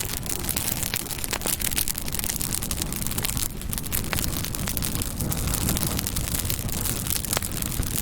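Campfire burning: a steady low rush of flames with frequent sharp crackles and pops from the wood.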